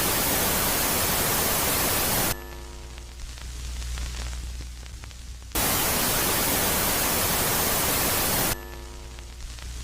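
Electronic static, a space-themed sound presented as the moon Megaclite, alternating between a loud phase and a quiet phase. Loud even hiss cuts off abruptly about two seconds in, leaving a quieter hiss over a low hum, then switches back on about five and a half seconds in for about three seconds before dropping again.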